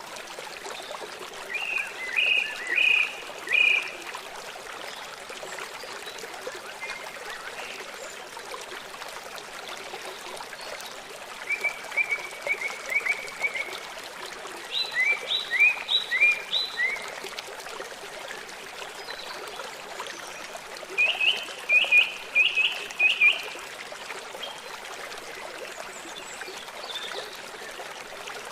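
Water running steadily in a small stream, with songbirds singing four short phrases of quick repeated chirps over it: one near the start, two close together around the middle, and one past two-thirds of the way through.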